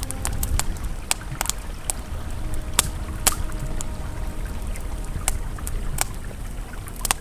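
Campfire crackling, with frequent sharp irregular pops, over the steady rush of a flowing river. Soft held tones of ambient music sound underneath.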